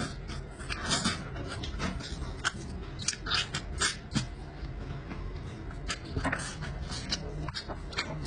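Close-miked chewing and lip-smacking as a man eats rib meat off the bone: irregular wet smacks and clicks, several a second.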